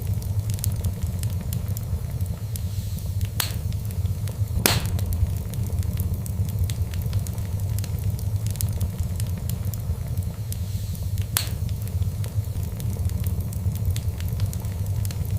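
Fireplace fire crackling over a steady low rumble, with many small crackles and three louder pops, about three and a half, four and a half, and eleven and a half seconds in.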